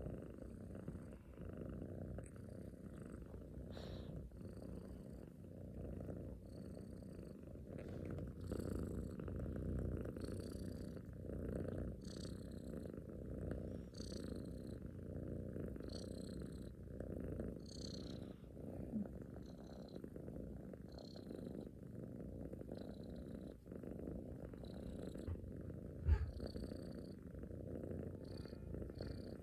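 Domestic cat purring steadily close up, a continuous low rumble. A single sharp knock near the end.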